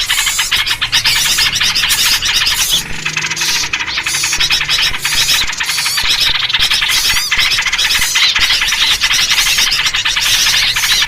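A dense, loud chorus of agitated small birds, yellow-vented bulbuls among them, chattering and scolding with rapid overlapping chirps and squeaky calls. It is the noisy alarm-chatter that bird trappers play to lure other birds in.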